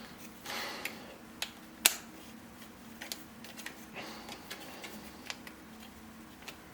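3D-printed plastic puzzle pieces clicking and knocking as they are handled and pushed into place: a dozen or so sharp, irregular clicks, the loudest about two seconds in.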